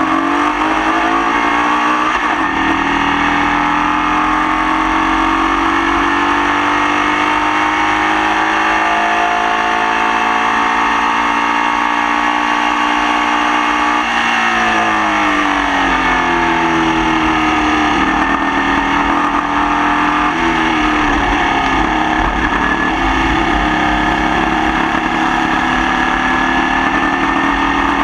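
Formula Vee racing car's air-cooled Volkswagen flat-four engine under hard racing, its revs climbing through long pulls and falling sharply at gear changes or braking, once about halfway through and a few more times after. The engine has a misfire that the driver says it carried for the whole race.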